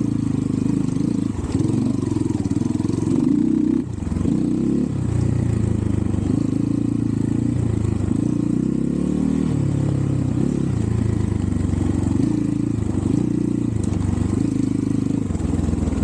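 Xpro Templar X 250cc dirt bike's single-cylinder four-stroke engine running under load, its revs rising and falling as the throttle is worked, with a brief dip about four seconds in. The rider suspects the carburettor is partly clogged, which makes the engine bog.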